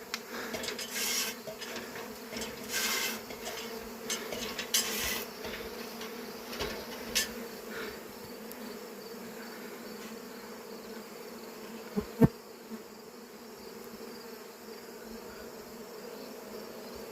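Honeybees buzzing in a steady hum. A few short rustling scrapes come in the first five seconds, and a single sharp knock about twelve seconds in.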